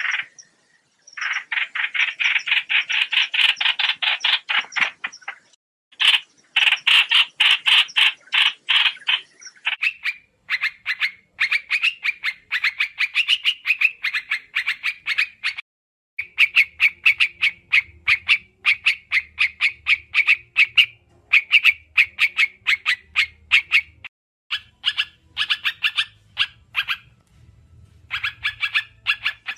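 A trao trảo (white-eye) calling in long bouts of rapid, evenly repeated chattering notes, about ten a second, with short pauses between the bouts.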